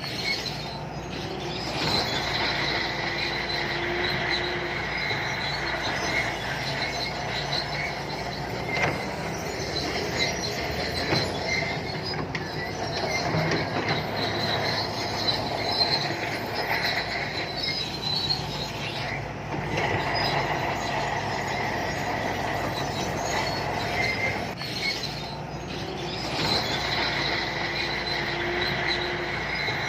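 SANTUI crawler bulldozer at work, its diesel engine running steadily under a high-pitched squeal from the steel tracks that fades and returns, with occasional knocks.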